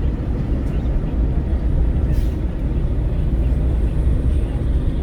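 Wind buffeting through the open window of a moving Renault Kwid at highway speed, mixed with tyre and road rumble: a steady, deep, loud rush.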